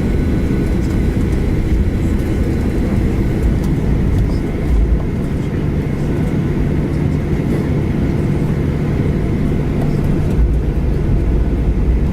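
Boeing 737-800 jet engines (CFM56-7B) running, heard inside the cabin: a steady low rumble with a faint high whine, and a deeper hum that comes in a few seconds in and fades near the end.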